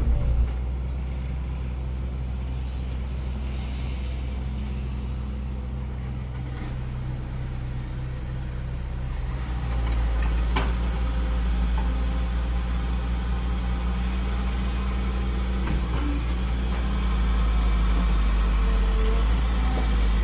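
Komatsu PC50UU-2 mini excavator's diesel engine running, growing louder about halfway through as it works harder. There is a sharp knock about ten seconds in.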